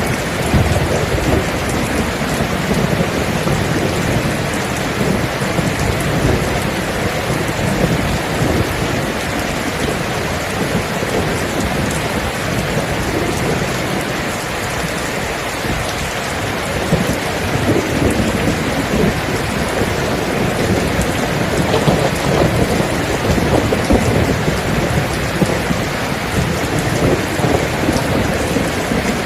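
Steady heavy rain falling, with low rolling thunder rumbling beneath it.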